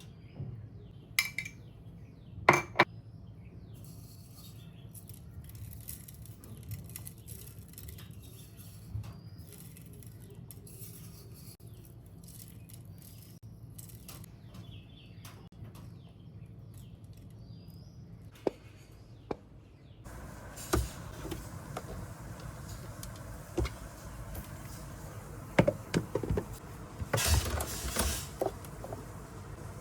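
Scattered clinks and knocks, like dishes and cutlery, over a quiet room background. About twenty seconds in, the background suddenly becomes louder and steadier, and the knocks grow more frequent near the end.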